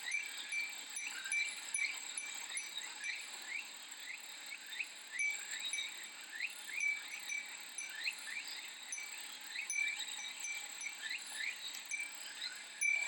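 Japanese glass wind chime (furin) tinkling now and then over a continuous high drone of cicadas, with many short rising chirps throughout.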